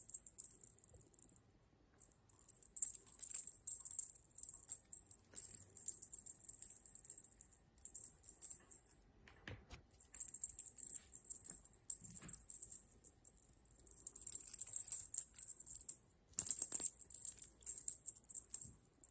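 A small jingling cat toy rattled in irregular bursts of shaking, each lasting one to two seconds, with a few soft knocks in between.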